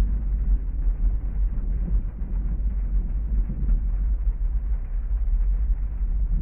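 Heavy rain on a parked car, heard from inside the cabin: a steady, deep, muffled noise with no single drops or thunderclaps standing out.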